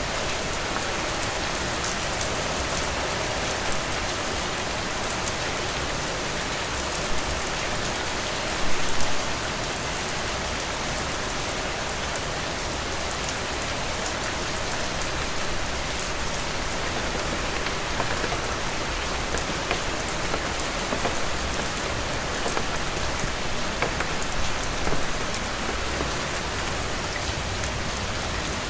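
Heavy rain falling steadily, a dense even hiss of many drops. A few brief louder spatters stand out, the biggest about nine seconds in.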